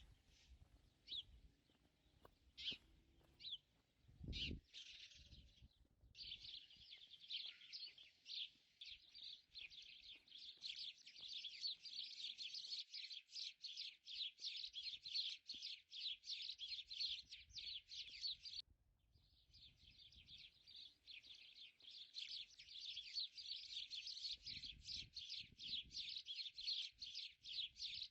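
Faint small-bird chirping: a few scattered chirps at first, then rapid, continuous chirping from about six seconds in, broken by a short pause about two-thirds through.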